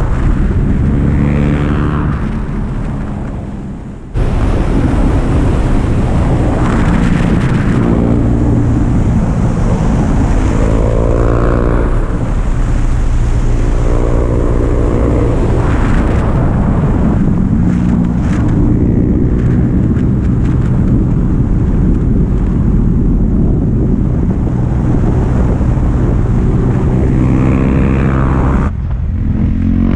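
Motorcycle engine revving up and falling back over and over as the rider works through the gears, with wind rushing over the microphone. The sound briefly dips about four seconds in and again near the end.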